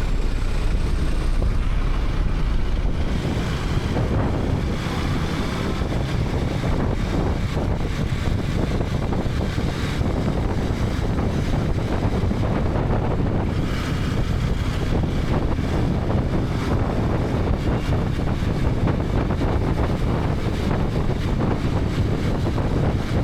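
Wind rushing over the microphone of a helmet camera on a moving KTM 250 Adventure, with the motorcycle's single-cylinder engine running underneath. It is steady throughout, with a deep rumble.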